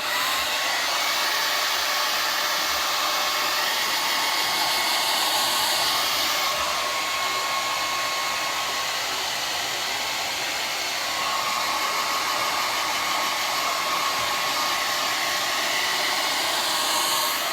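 Hand-held hair dryer switched on and running steadily while blow-drying long hair, a breathy rush of air with a faint steady whine; it gets a little quieter about halfway through, then comes back up.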